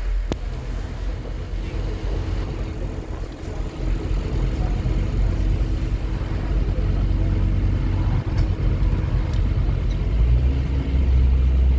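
Scania N230UD OmniCity double-decker bus engine running steadily, growing louder with a stronger low drone about ten seconds in as the bus comes under load.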